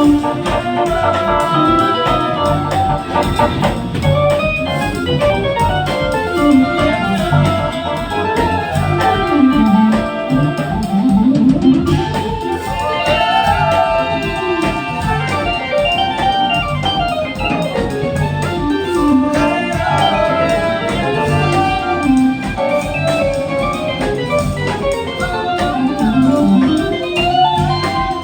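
Band music: organ and guitar playing over a steady rhythm, with many bending, gliding melody notes.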